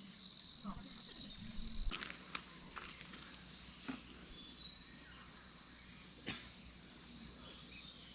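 Outdoor rural ambience with a rapid, high-pitched chirping call repeated in runs of about six a second, broken by a few faint clicks.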